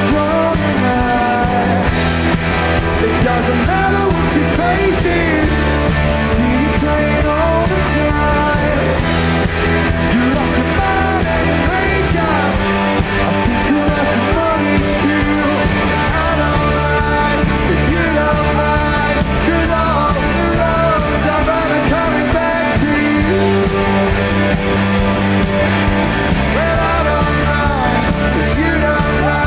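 Rock band playing live, the full band loud and steady throughout.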